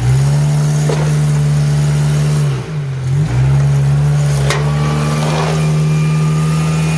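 A compact Suzuki 4x4's four-cylinder engine held at high revs under load as it climbs a rock ledge, the revs dipping briefly twice near the middle. There is a sharp knock about four and a half seconds in.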